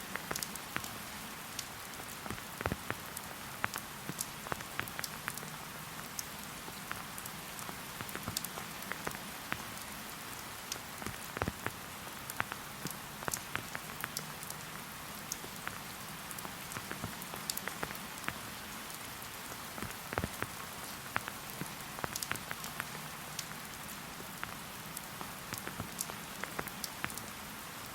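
Steady light rain, with many separate drops ticking sharply on nearby surfaces over a constant soft hiss of rainfall.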